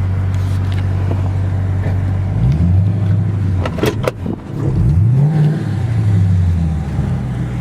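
A 2011 Dodge Challenger R/T's 5.7-litre Hemi V8 with a custom exhaust idling, then revved twice, about two and a half seconds in and again about five seconds in, each time rising and falling back to idle. A few short clicks come just before the second rev.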